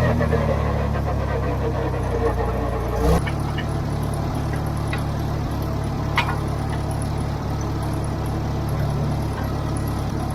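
David Brown 30 tractor engine running steadily under load, with a sharp knock about three seconds in after which the engine note shifts slightly, and a few light clicks later.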